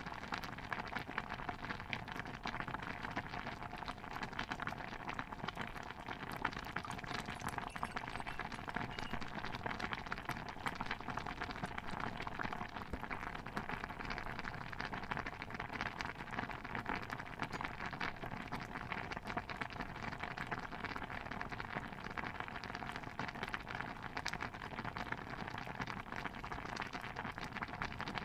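A pot of stew bubbling steadily, a dense patter of small pops.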